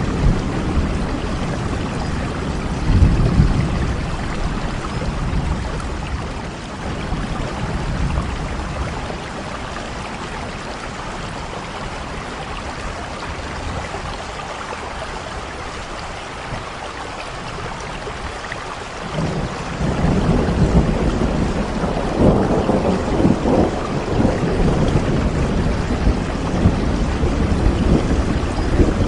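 Steady rain falling. A low rumble swells about three seconds in, the sound eases through the middle, and a heavier, louder low rumble sets in about two-thirds of the way through.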